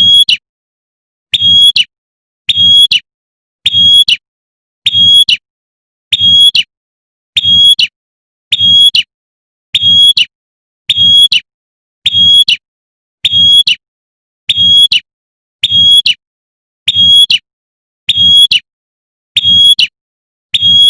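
Female prenjak (prinia) giving its sharp 'tembakan' call, the call used to draw in a male, repeated about every 1.2 seconds in an unchanging rhythm, each call with a low thump beneath it.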